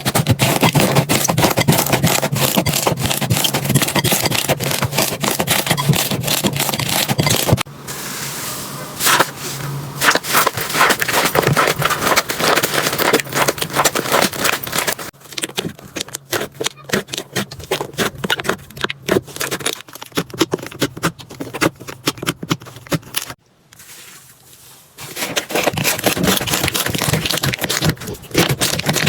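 Slime being squeezed, poked and stretched by hand, making dense crackling, popping and sticky scraping sounds. The texture changes twice, and the sounds briefly drop away a little after the middle.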